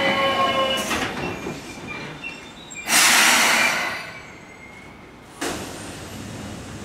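Seibu 2000-series electric train coming to a stop: its whining tones die away less than a second in. About three seconds in comes a loud hiss of air lasting about a second. A second, quieter sudden noise follows about five and a half seconds in.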